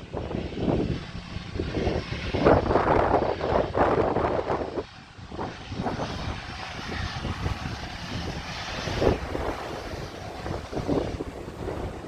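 Jet engines of a Bombardier Global business jet running, heard through uneven gusts of wind buffeting the microphone.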